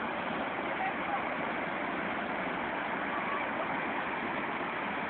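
Steady roar of a large waterfall, the river in flood from the rainy season.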